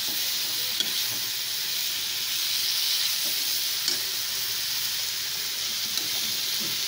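Sliced button mushrooms in masala sizzling steadily in a wok over medium flame as they are stirred with a metal spatula, which clicks lightly against the pan a few times.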